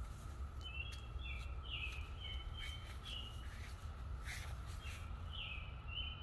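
A bird chirping in short, repeated high notes over the steady, even drone of a distant periodical cicada chorus. A brief rustle about four seconds in.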